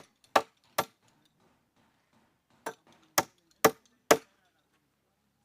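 Sharp blows struck on wood in two runs: three strikes a little under half a second apart, then after a pause of about two seconds, four more about half a second apart.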